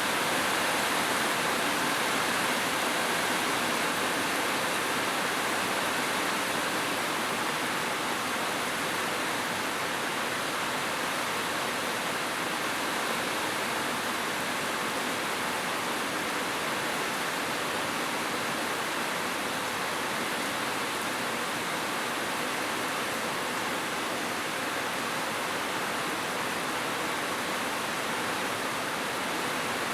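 Heavy rain falling steadily on a roof, an even hiss with no thunderclaps in it.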